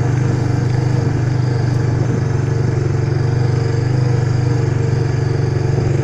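Small off-road vehicle engine running steadily, its pitch even throughout, heard close up from the machine being ridden.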